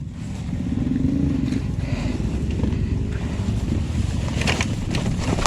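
Trail motorcycle engine running at low revs, its pitch rising and easing back briefly about a second in, with a couple of short knocks near the end.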